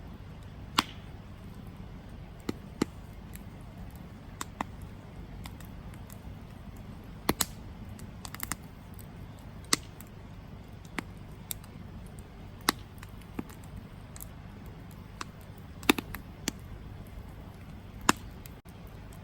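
Wood campfire crackling: irregular sharp pops and snaps, about one a second and unevenly spaced, over a steady low rumble.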